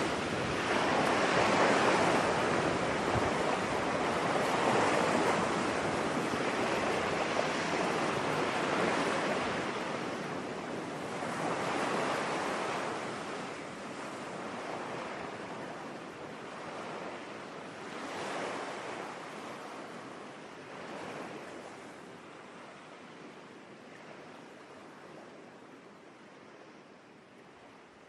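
Ocean waves breaking and washing up on a beach, surging every few seconds, the whole sound slowly fading out.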